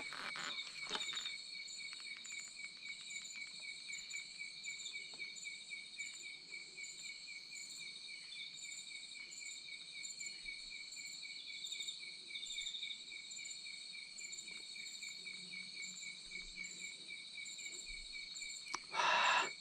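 Insect chorus of crickets chirping, with several overlapping rapid pulsing trills at different pitches running steadily. A short louder noise breaks in near the end.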